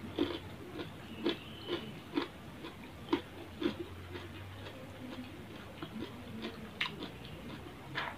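A person chewing a mouthful of rice and grilled fish, wet mouth smacks and lip clicks coming about twice a second at first, then more sparsely.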